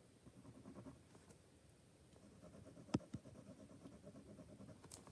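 Faint scratching of a pen drawing on paper, with one sharp click about three seconds in.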